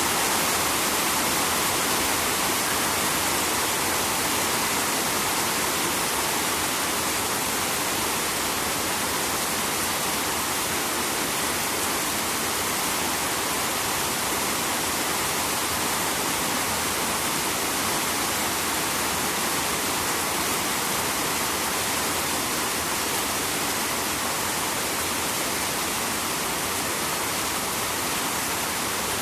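Rain falling close to a river, a dense, steady rushing hiss of raindrops and flowing water.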